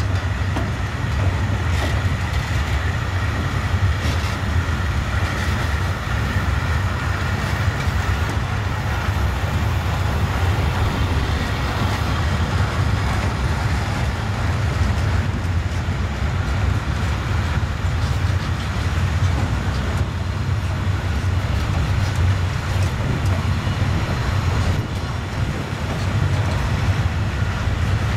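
Freight train of silo hopper wagons rolling past: a steady rumble of steel wheels on the rails, with faint clicks and some light metallic ringing.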